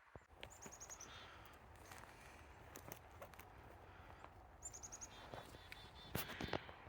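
Songbirds singing faintly, one bird twice giving a short, rapid series of high repeated notes. Scattered sharp clicks and knocks sound throughout, the loudest cluster a little before the end.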